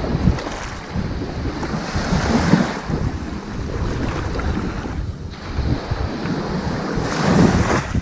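Ocean waves washing onto a sandy beach: a continuous rush of surf that swells twice, about two and a half seconds in and again near the end.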